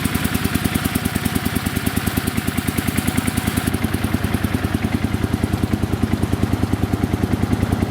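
A small engine running steadily, with a rapid, even putter.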